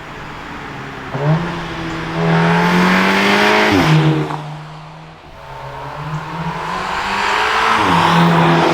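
Audi S3's turbocharged four-cylinder engine heard through its exhaust, pulling hard twice. Each pull swells in loudness and ends in a sudden quick drop in pitch, like a fast gear change.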